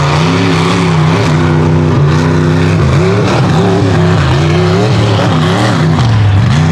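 Mega truck's engine running hard at high revs, held steady at first, then revving down and up again about once a second as the throttle is worked.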